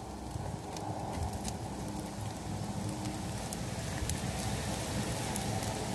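Long-arm octopus and vegetables sizzling in a wok over a wood fire, a steady hiss with scattered sharp pops and crackles.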